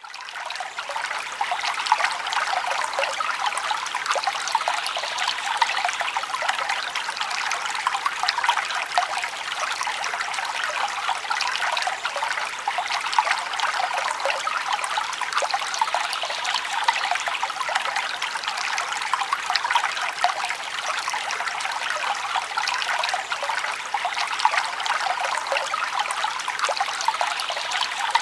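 Forest stream flowing steadily, a continuous trickling and babbling with many small splashes, fading in over the first second.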